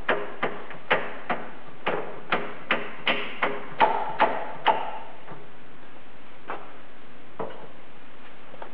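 A run of sharp metallic clicks and knocks, about two to three a second for the first five seconds, some with a short ring, then two scattered ones further on, as a shop press forces the collar down over the bearing on the mill's front variable-speed pulley.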